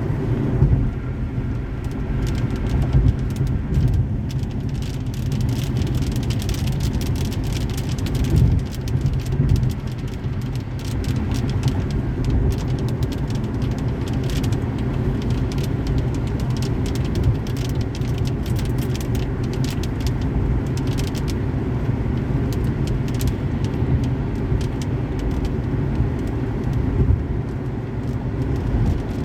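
Car driving on a highway in the rain: a steady low road and engine rumble, with scattered raindrops ticking against the car.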